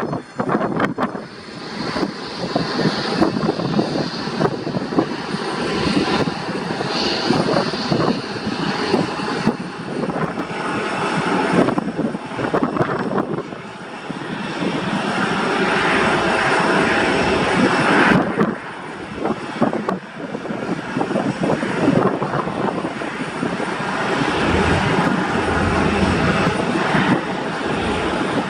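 Airliner engines running: a loud, continuous rushing roar that swells and eases, with a thin high whine in the first few seconds.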